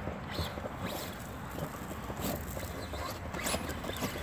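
Traxxas Rustler VXL RC truck's electric motor whirring in short throttle bursts as its tyres spin in mud.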